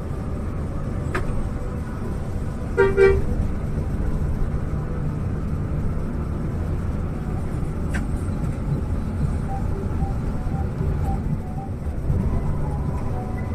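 Steady low road-and-engine rumble of a moving coach, with one short vehicle-horn toot about three seconds in.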